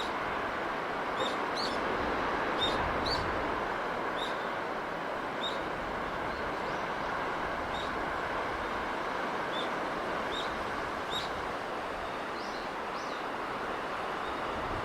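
Steady rushing of sea breeze, with a small bird giving short high chirps every second or so.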